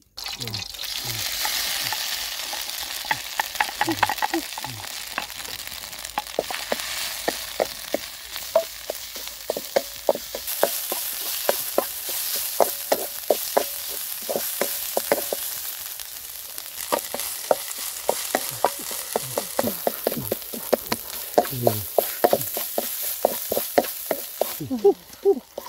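Spice paste sizzling as it hits hot oil in a metal wok over a wood fire, then stir-fried, with the spatula scraping and knocking against the pan many times. The sizzle begins as the paste goes in and grows stronger about halfway through.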